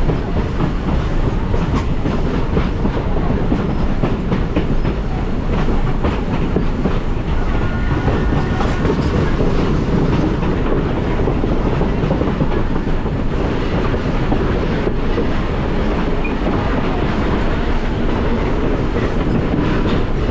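Heritage train rolling along the track, heard from aboard: a steady rumble with the clickety-clack of wheels over rail joints.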